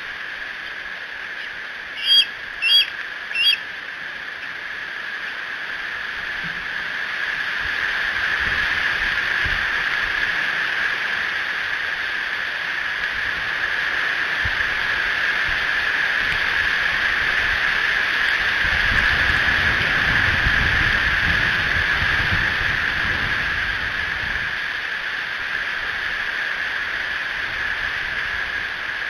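Strong wind rushing through the trees, a steady hiss that swells in gusts, with low buffeting on the microphone around the middle. Near the start, three short high-pitched bird calls come in quick succession.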